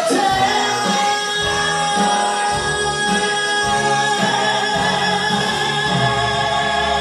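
Music: several voices singing long held notes in harmony over a moving bass line.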